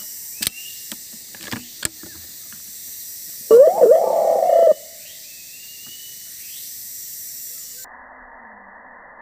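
A bird's loud, gliding call, about a second long, midway through. Underneath run a steady hiss, faint short high chirps and a few sharp clicks.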